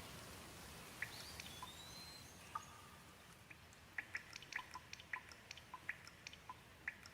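Gentle rain falling: a faint steady hiss with single water drops dripping and plinking, sparse at first and coming several a second from about four seconds in. A short faint rising whistle sounds about a second and a half in.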